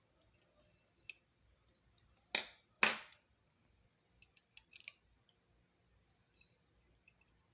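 Two loud, sharp clacks about half a second apart, then a few light clicks, from small parts of a laptop DVD drive being handled and worked on.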